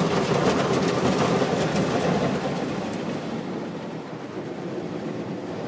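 Automatic car wash working over the car, heard from inside the cabin: a steady wash of water and machinery noise with some rattling early on, easing off about halfway through.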